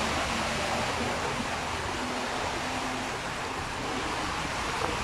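Steady rush of heavy rain and running water.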